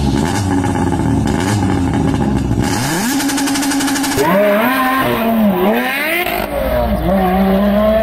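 Car engine revving hard under acceleration, its pitch climbing and dropping back twice at gear changes before climbing again.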